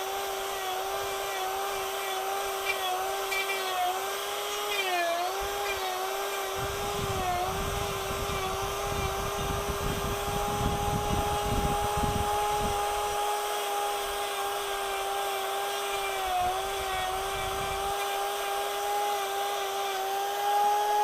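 High-speed electric power-carving tool running with a steady high whine, its pitch dipping briefly each time it is pressed into the wood. In the middle stretch a rough grinding and cutting noise of wood being removed sits under the whine.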